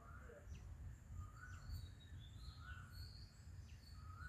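Faint outdoor ambience: several birds calling in short chirps and whistles, some falling in pitch, over a low rumble.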